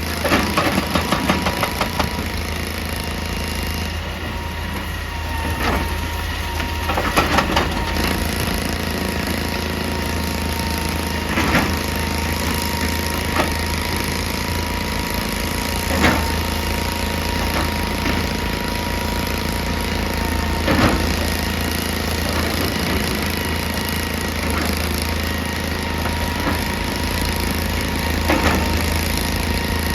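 Excavator's diesel engine running steadily under load, with a thin steady whine. There are bursts of rapid hammering on rock at the start and again about seven seconds in, and single heavy knocks every few seconds after that.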